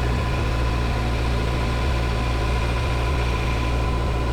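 Metal lathe running steadily while a boring bar takes a finishing cut inside a bore: a constant low hum with a thin, steady whine above it.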